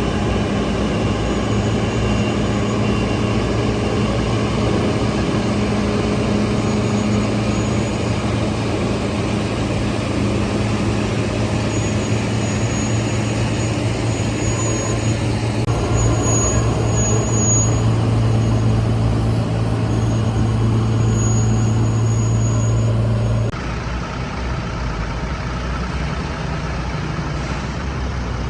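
Liebherr T 264 mining haul truck running on the move: a steady low hum over a broad rumble. The hum cuts out abruptly near the end, leaving a quieter rumble.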